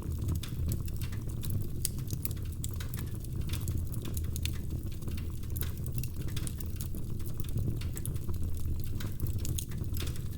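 Logs burning in a fireplace: wood crackling with frequent irregular snaps and pops over a low steady rumble of the fire.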